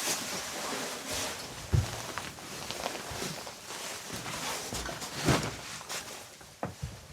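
Rustling and handling noises with a few dull thumps, the loudest about two seconds in and again about five seconds in.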